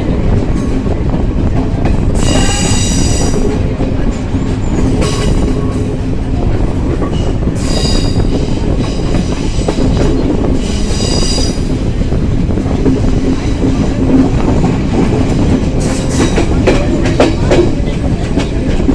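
Train running along the track with a steady rumble; its wheels squeal three times in the first half, and a run of rail-joint clicks comes near the end.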